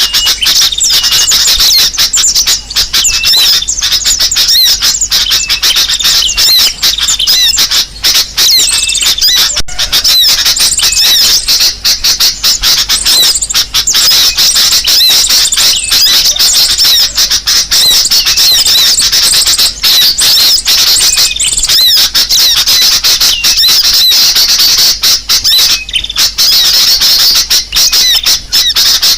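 Bird-lure recording of spiderhunter ('kolibri sogok ontong') calls mixed with sooty-headed bulbul calls, played loud: dense, unbroken high-pitched chirping made of many short repeated notes.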